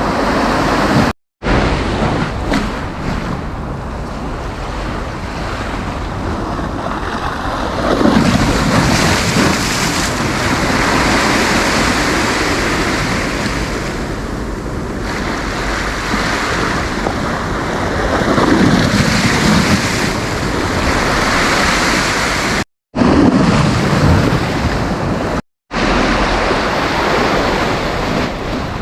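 Sea surf breaking and washing up the beach, a continuous rush that swells every several seconds, with wind buffeting the microphone. The sound cuts out completely for a split second three times.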